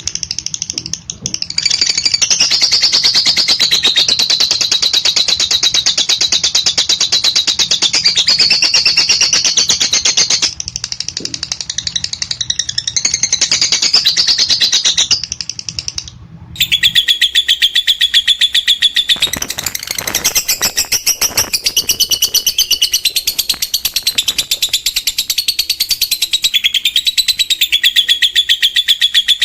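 Lovebird 'ngekek': a long, unbroken, very fast chattering trill of high squeaky notes, the long-duration chatter kept for training other birds. It breaks off briefly about halfway, then resumes.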